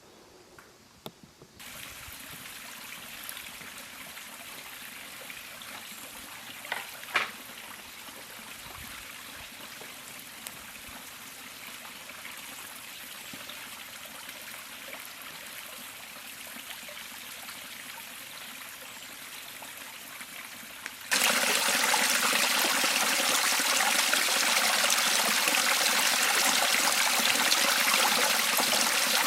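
River water flowing, a steady rushing that jumps abruptly much louder about 21 seconds in. A couple of brief knocks sound about seven seconds in.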